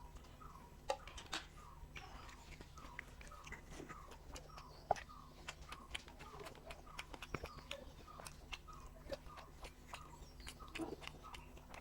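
Chewing with many small wet mouth clicks and lip smacks, from someone eating rice with rohu fish curry.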